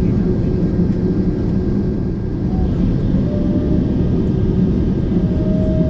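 Steady engine and airframe rumble inside the cabin of a Boeing 767-400ER airliner. A faint whine joins about halfway through and creeps slightly higher in pitch.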